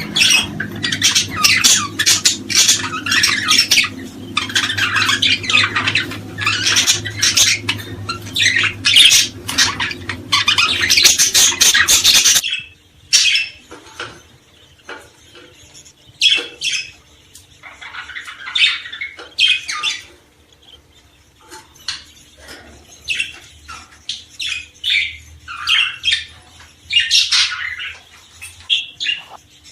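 Small cage birds chirping and squawking in a dense, busy chorus that changes abruptly about twelve seconds in to sparser, separate calls with short gaps between them.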